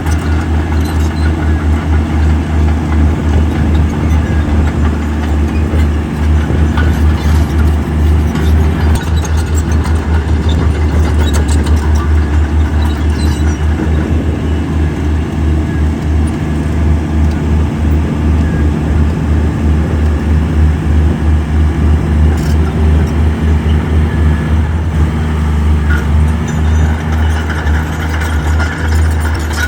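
Heavy diesel engine of earthmoving machinery running steadily, a deep, fast-pulsing drone, with a few faint knocks.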